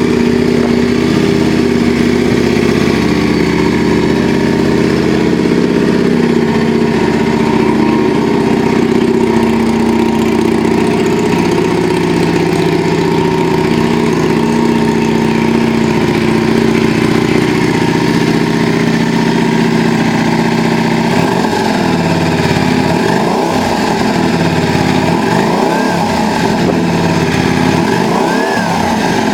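Yamaha DragStar 400 V-twin engine idling steadily through an aftermarket custom muffler. Over the last several seconds its low tone wavers and sweeps.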